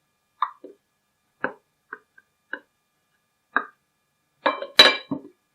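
Scattered light knocks and taps, about eight of them, with the loudest cluster near the end, as fish fillets are laid into a microwave-safe dish.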